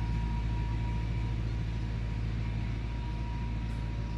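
Engine running steadily, an even low drone with no change in pitch.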